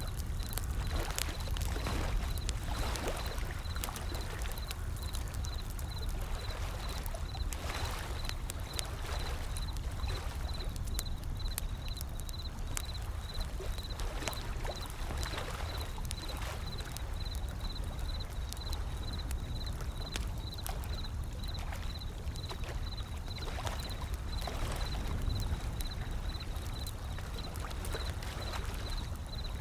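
Wood fire crackling with many small sharp pops, over ocean waves washing in and out every few seconds and a steady low rumble of surf.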